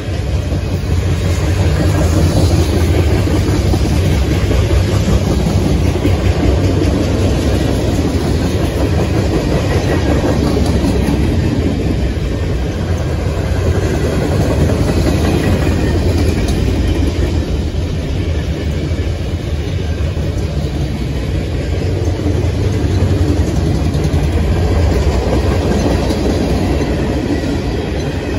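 Freight cars of a CSX manifest train, mostly tank cars, rolling steadily past close by: continuous steel wheel-on-rail noise, heaviest in the low end.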